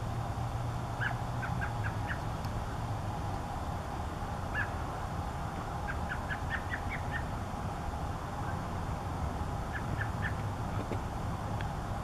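Short, clipped bird call notes in quick runs of several, heard four times, over a steady low background rumble.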